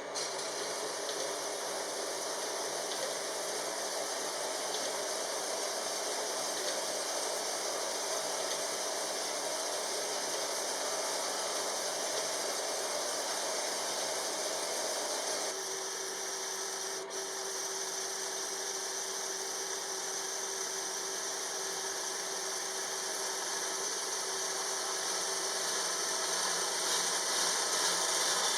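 Steady rasping of a workshop power tool working metal exhaust tubing. About halfway through the sound changes and a faint steady hum joins it.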